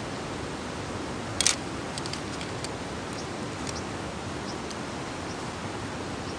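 Wood fire crackling: one sharp, loud pop about a second and a half in, then scattered faint ticks, over a steady rushing noise.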